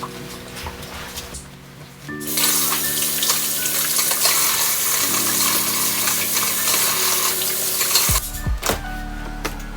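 Water running from a tap into a sink: a steady rush that starts about two seconds in and cuts off about two seconds before the end, over soft background music. A few light knocks follow near the end.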